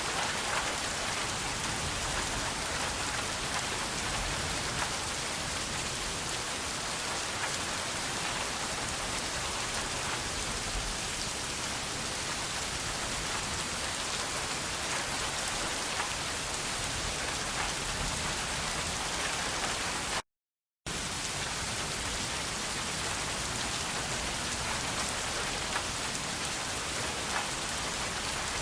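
Steady rain falling, an even hiss with scattered drop ticks. About two-thirds of the way through, it cuts out to total silence for about half a second, then carries on unchanged.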